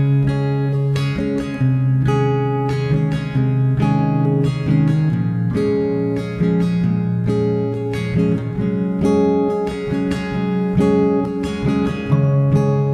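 Background music played on acoustic guitar, with strummed and plucked chords at a steady beat.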